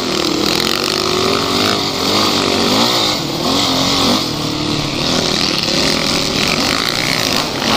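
Off-road vehicle's engine running under load, its revs rising and falling again and again as it is driven over rough ground.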